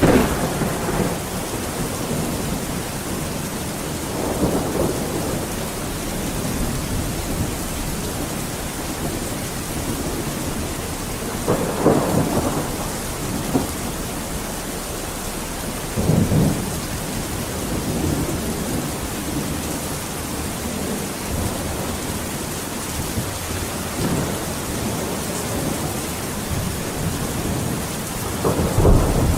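Steady heavy rain falling, with rolls of thunder breaking through several times: at the start, around a third of the way in, about halfway, and a deeper, heavier rumble near the end.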